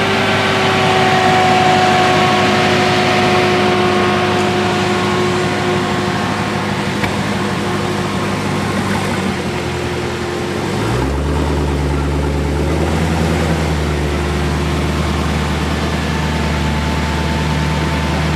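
A car engine idling with a steady low hum; about eleven seconds in, the hum shifts to a deeper, stronger note.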